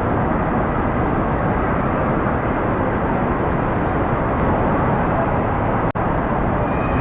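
Steady wash of indoor waterpark noise, chiefly water rushing and splashing from slides and pools, broken by a brief dropout about six seconds in.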